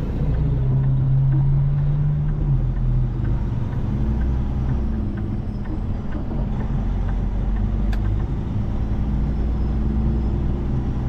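Semi truck's diesel engine pulling a heavy load, heard from inside the cab: a steady low drone with a strong even tone through the first couple of seconds.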